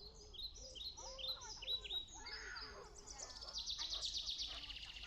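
A small songbird singing: a series of short, high, down-slurred notes, then a fast high trill near the end.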